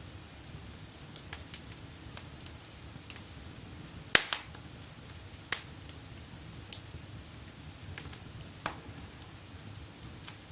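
Wood fire burning in a fireplace, crackling with irregular sharp pops, the loudest about four seconds in, over a low steady rumble of the flames.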